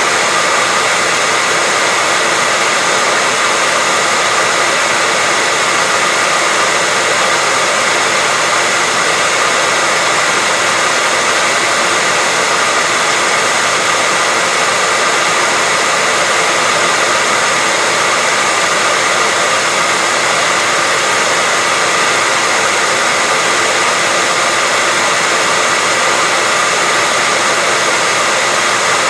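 Hair dryer running continuously at a steady speed: an even rushing of air with a faint high motor whine.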